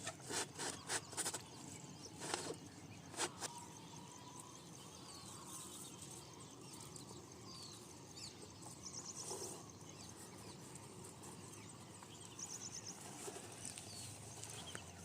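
Small birds chirping with a few short rapid trills over a faint outdoor background. Several sharp knocks or clicks come in the first three seconds.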